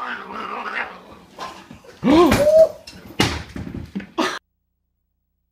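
Animal scuffle: hissing, a short rising-and-falling cry about two seconds in, and a few sharp knocks. The sound cuts off suddenly after about four seconds.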